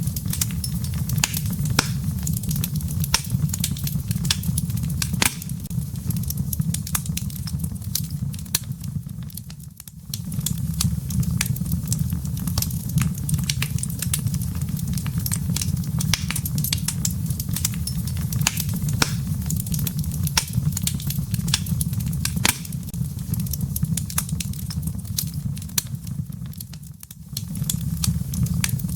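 Wood fire crackling in a fireplace: a steady low rumble of burning with frequent sharp pops and snaps from the firewood. The sound dips briefly twice.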